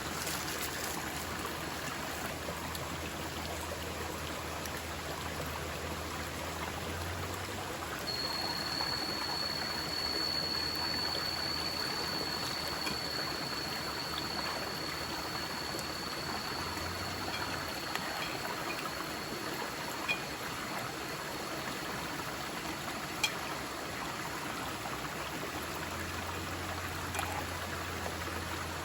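Forest stream flowing steadily over rocks. A thin steady high tone joins about eight seconds in and fades out well before the end, and two small ticks sound near the end.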